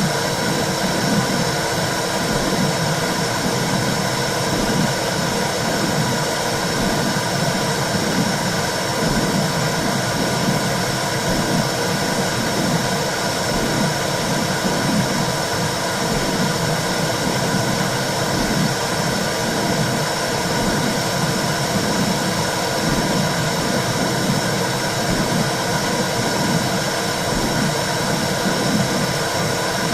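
Womb sound for soothing a baby: a steady whooshing hiss with a low, evenly repeating pulse underneath.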